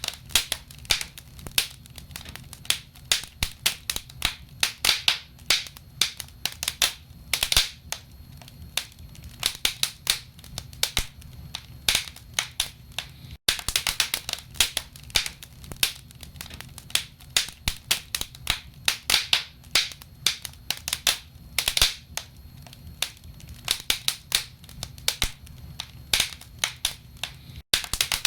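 Wood fire burning in a fireplace, logs crackling and popping in a dense, irregular stream of sharp snaps over a steady low rumble. The sound breaks off for a split second twice.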